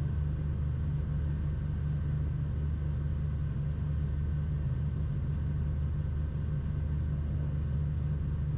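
Cessna 340's twin piston engines and airflow, a steady low drone heard from inside the cockpit at reduced power on short final before touchdown.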